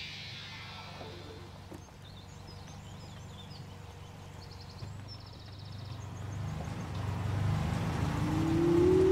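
A car engine running low and steady, growing louder over the last few seconds, with faint bird chirps and a quick trill in the middle. Near the end a tone sliding slowly upward in pitch begins.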